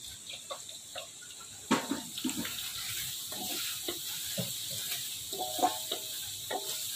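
Ginger and lemongrass sizzling in oil in an aluminium wok, stirred with a wooden spatula that scrapes and knocks against the pan. The sizzle grows louder about two seconds in.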